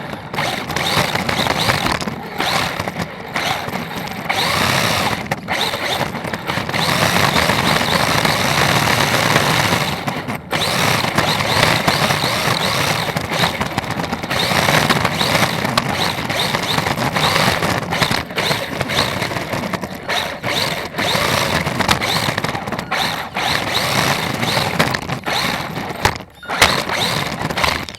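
Electric RC drift car being driven, its electric motor whining and rising and falling in pitch as it speeds up and backs off, with many brief cut-offs in the sound.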